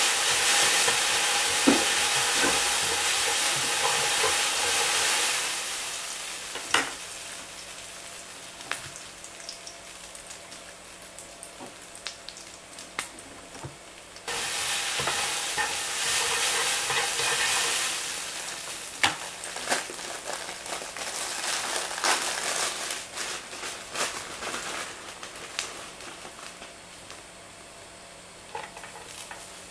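Hita-style yakisoba noodles and pork frying in oil in a pan, a loud sizzle that dies down after about five seconds, jumps back up suddenly about halfway, then fades again. Chopsticks click against the pan now and then as the noodles are stirred.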